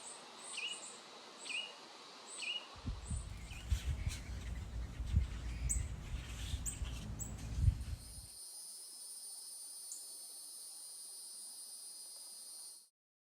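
Backyard ambience: a bird repeats a quick down-slurred call note about once every 0.7 s, over a low rumble with a few knocks in the middle. Insects then take over with a steady high-pitched drone that cuts off suddenly near the end.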